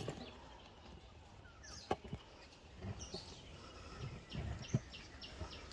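Birds chirping over an outdoor background, with a quick run of short high chirps a little past three seconds in and a few sharp knocks.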